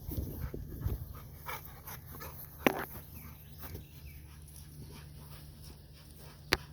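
Puppies wrestling with each other, making short scuffling dog noises that thin out after the first second or so. Two sharp clicks stand out, one near the middle and one just before the end.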